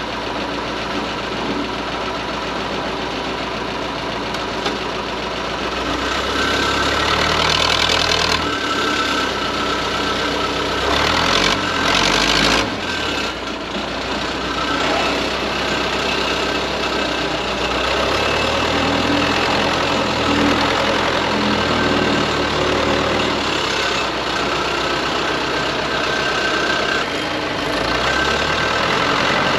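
Tractor engine running, its speed and load rising and falling as the loader bucket is worked. It gets louder about six seconds in, with a brief louder stretch near the middle.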